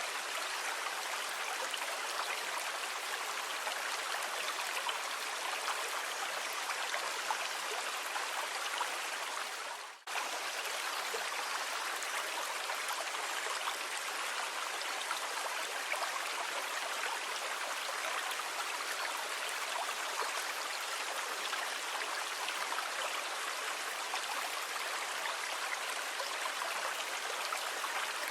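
Steady rushing of water, dipping out briefly about ten seconds in and then resuming.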